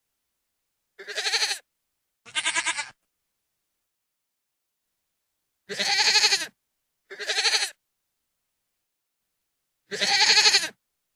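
Goat screaming: five loud bleating cries of about half a second each, with a quavering tremolo, coming as two quick pairs and then a single, with silent gaps between.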